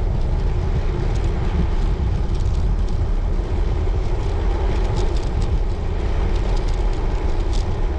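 Steady wind rumble on the microphone and road noise from a road bike in motion.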